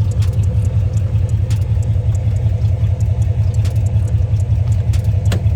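A car engine idling with a steady low rumble, with scattered light clicks and taps over it.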